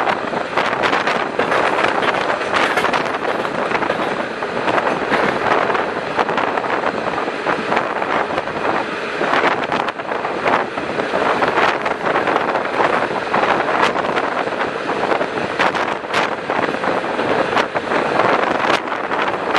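Passenger train carriage in motion: a steady rushing noise of wheels running on the rails, with scattered sharp clicks and knocks.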